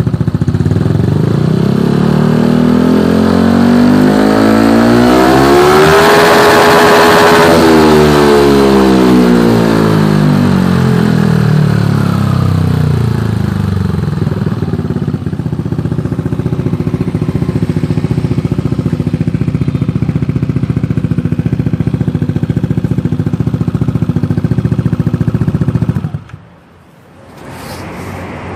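A motor vehicle's engine rises steadily in pitch and loudness to a peak about six seconds in, then falls back, and afterwards runs steadily until it cuts off sharply near the end.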